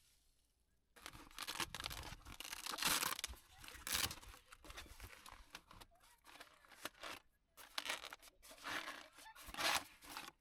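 Dry crunching and rustling in irregular bursts, starting about a second in, from something dry being handled, crushed or torn.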